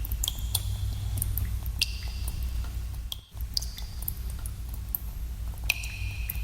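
Water drops falling in a cave, an irregular run of sharp plinks, several a second at times, each ringing briefly at a high pitch, over a steady low rumble. The background briefly drops out a little past three seconds in.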